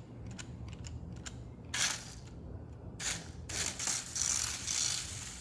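A 1/32-scale Nikko toy RC car's small electric motor and plastic gears whirring in bursts as it is driven, after a few light clicks.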